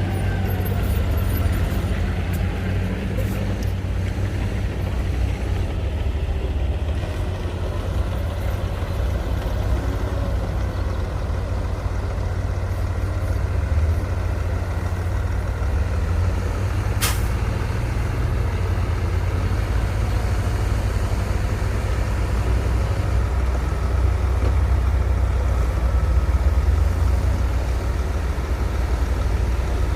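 Heavy diesel engine of earthmoving machinery (bulldozer and dump trucks) running steadily under load, with one sharp clank about halfway through.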